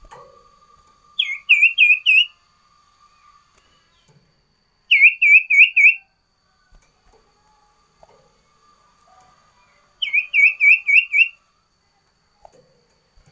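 Sirtu (golden-bellied gerygone) singing three phrases of about five quick, sharp, dipping whistled notes each, a few seconds apart, over a faint steady whine.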